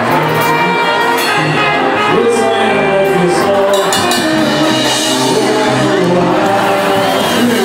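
Live samba band playing, with a sung vocal line over bass and percussion in a large hall.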